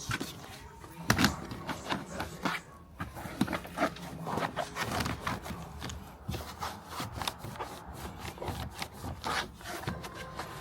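Irregular rubbing, scraping and light clicking of hands handling forged carbon fiber trim pieces.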